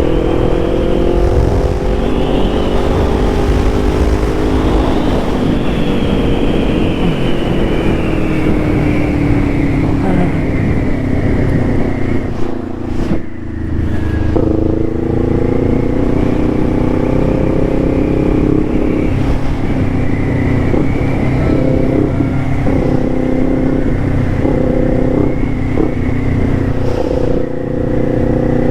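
Small-displacement motorcycle engine running under way, its pitch rising and falling as the rider speeds up and eases off, with a brief drop about thirteen seconds in as the throttle closes. Rushing wind runs underneath.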